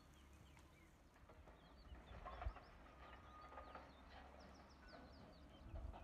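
Faint outdoor birdsong: many short, quick, falling chirps with a few held whistled notes, over a low rumble of wind on the microphone, with one brief low thump about halfway through.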